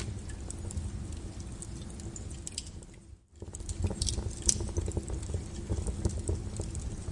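Wood fire burning, crackling with irregular sharp pops and snaps over a low rumble. The sound briefly fades out about three seconds in, then comes back.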